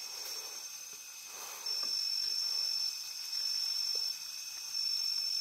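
Night insects calling: a steady high-pitched trill that drops out and comes back every second or two, over a fainter, lower steady tone.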